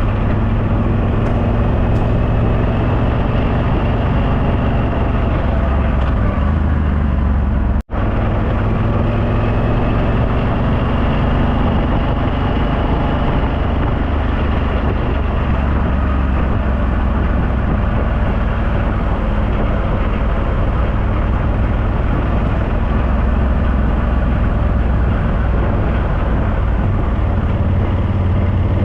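Motorcycle engine running steadily at road speed, with wind rushing over the microphone; the sound drops out for an instant about eight seconds in.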